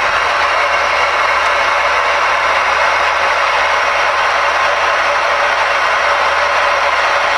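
Steady static hiss from the Ranger RCI-69FFB4 ten-meter radio's speaker: receiver band noise with no station transmitting, over a faint low hum.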